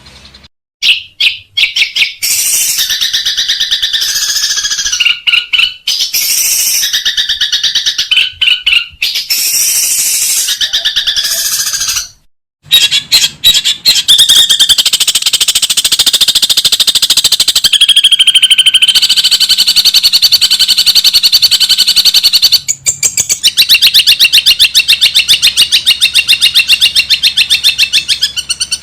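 Long-tailed shrike (cendet) singing in fast, repeated chattering phrases, a high trilled song with mimicked sparrow-like calls. The recording breaks off into silence briefly near the start and again at about 12 seconds, then runs on as an unbroken rapid chatter.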